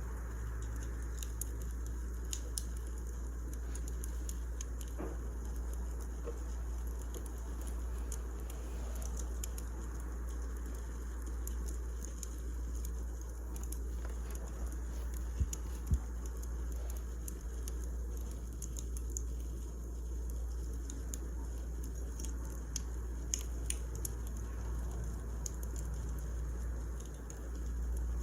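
Wood fire crackling: scattered small sharp pops and snaps over a steady low rumble, with two louder pops a little past halfway.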